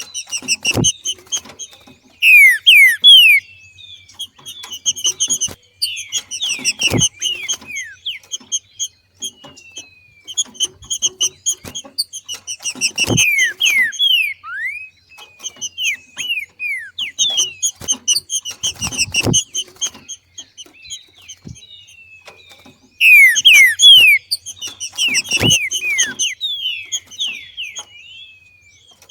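Green-winged saltator (trinca-ferro) calling in repeated bursts of quick, sharp, falling notes: the 'macheado' chatter of a bird in breeding condition. Low knocks come about every six seconds.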